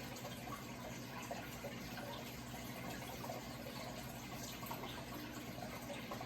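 Running water trickling and splashing steadily, with a low steady hum underneath.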